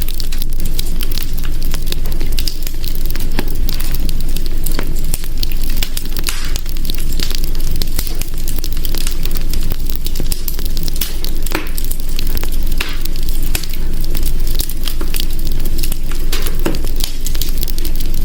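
Wood fire burning in a hearth, a steady low rumble and hiss with frequent irregular crackles and pops.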